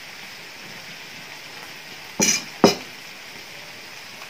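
Instant noodles sizzling steadily in a hot wok, with two sharp knocks about half a second apart a little over two seconds in.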